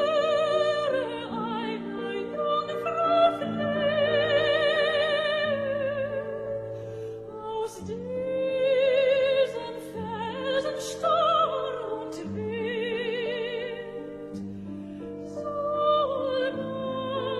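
Operatic singing: a solo voice with wide vibrato sustains long notes over a slow, held classical accompaniment.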